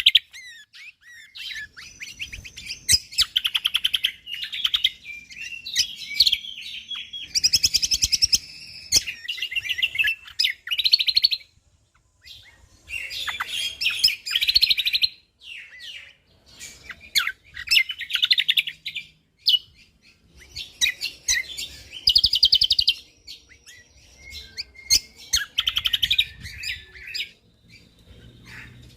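Cucak kombo (kecial kombo) songbird singing: bursts of rapid, tightly packed chirps and trills with short pauses between phrases.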